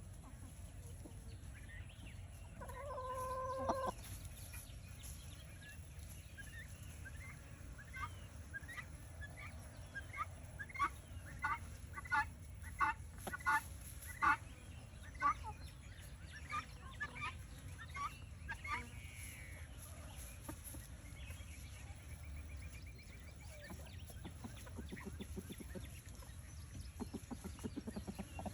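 Chickens clucking: a drawn-out call about three seconds in, then a run of short clucks that grows louder and fades away again, over a steady low background rumble.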